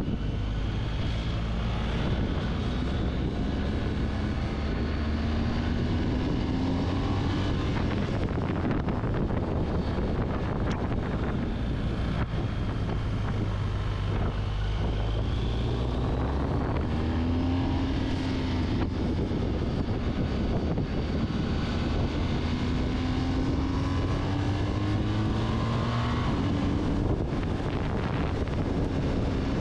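Twin-cylinder adventure motorcycle engine under way, its note rising several times and dropping back between as it pulls through the gears, with wind rushing over the microphone.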